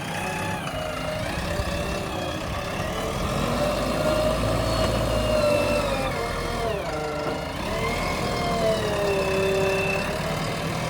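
Diesel engine of a JCB 3DX backhoe loader running under working load, its speed and a hydraulic-type whine rising and falling slowly as the machine digs and loads.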